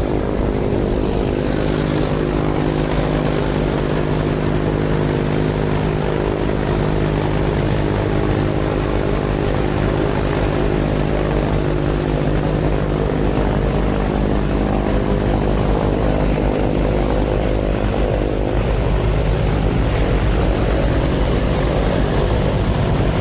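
Helicopter running steadily: turbine and rotor drone, one unbroken tone that holds level throughout.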